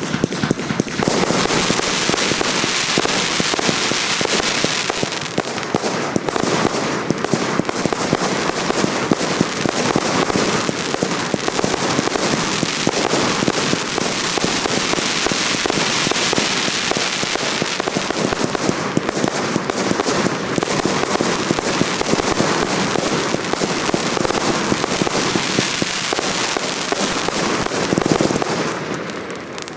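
Professional fireworks display going off in a dense, continuous barrage of rapid crackling and popping. It thins out and dies down briefly just before the end.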